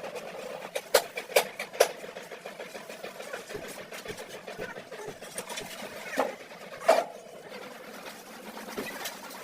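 Hand-tool work on car parts: a rapid metallic rattling with three sharp knocks about a second in, and two louder clanks near the end.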